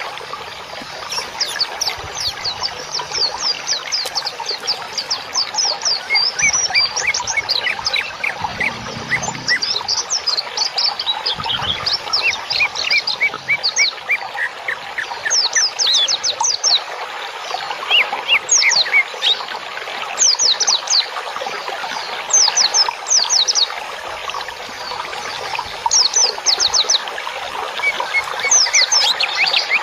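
Songbirds singing in rapid series of short, high, falling chirps, bursts of quick notes repeating every second or two over a dense background of softer bird calls.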